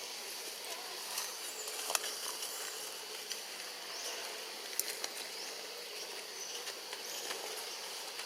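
Steady high hiss of outdoor ambience, with a few short, light clicks and rustles.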